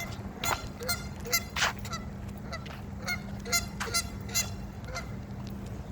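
Geese honking repeatedly: about a dozen short, sharp calls in quick succession.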